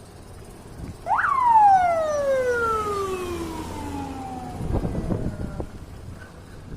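A single siren whoop: the pitch shoots up quickly, then falls slowly over about four seconds before dying away.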